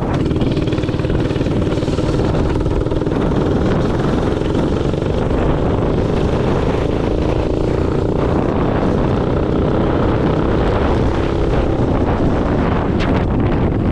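Minibike engine running steadily while riding, with a dense low rumble.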